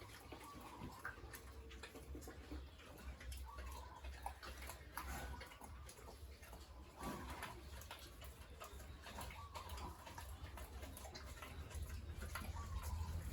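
Faint farmyard sounds: scattered ticks and clicks with short, high animal calls, over a steady low hum.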